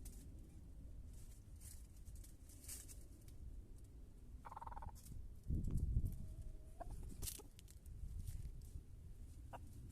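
Chickens calling, with one short call about four and a half seconds in and a fainter one after it. A steady low rumble runs underneath, with a loud burst of it about five and a half seconds in.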